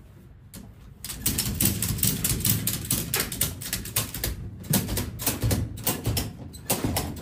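Ratchet tie-down strap being cranked tight, a rapid run of metal clicks that starts about a second in and goes on in quick bursts.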